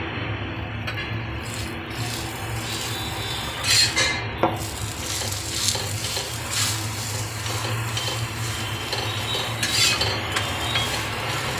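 A paratha sizzling in oil on a flat iron griddle (tawa), with a metal spatula scraping and pressing against the griddle. Sharper scrapes come about four seconds in and again near the end, when the paratha is lifted to be flipped.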